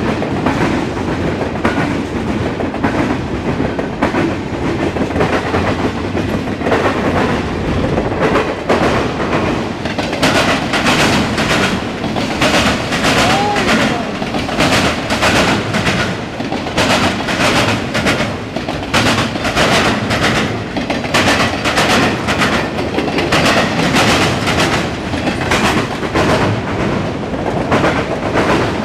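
Norfolk Southern intermodal and autorack freight cars rolling past close by with a steady rumble. From about ten seconds in there is a regular clickety-clack of wheels passing over rail joints, a few clicks a second.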